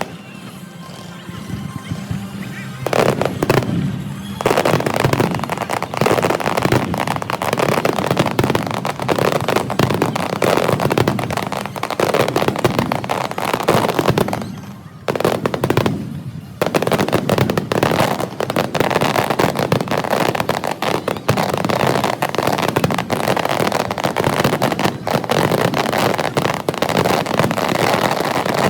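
Fireworks display: a dense, rapid barrage of bangs and crackling. It is quieter for the first few seconds, then breaks off briefly about halfway through before carrying on.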